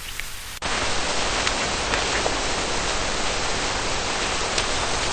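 Steady rain falling, an even hiss with scattered drop taps. It starts suddenly about half a second in, after a quieter stretch with a few drips.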